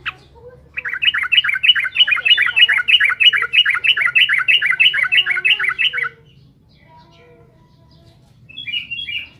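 Yellow-vented bulbul (trucukan) singing a fast run of repeated bubbling notes, about four a second, for some five seconds, then a short call near the end.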